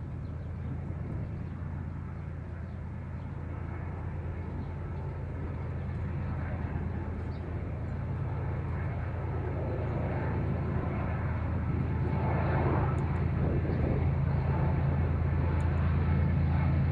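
A train approaching: a low, steady engine drone that grows steadily louder.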